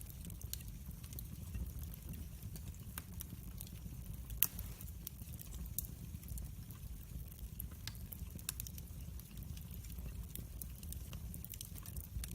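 Wood fire crackling in a fireplace: a steady low rumble of flames with scattered sharp pops and snaps, one louder pop about four and a half seconds in.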